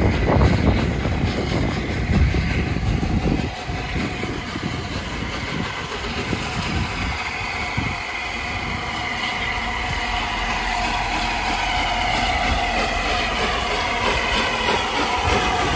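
A train running along the track, growing a little louder through the second half.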